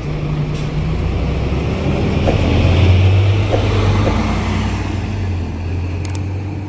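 Scania K270UB bus's diesel engine running, its low drone swelling to a peak about halfway through and then easing off, with a few faint clicks near the end.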